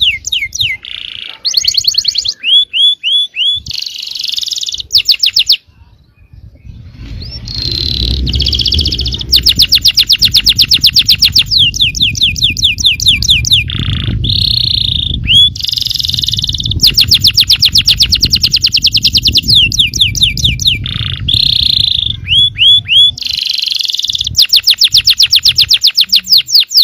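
Yellow domestic canary singing a long song of fast trills and rolls: rapid runs of repeated sweeping notes, broken by a short pause about six seconds in. A low rumble sits under the middle of the song.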